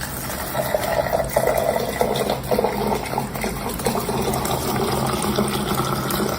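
Running water, a steady rushing noise.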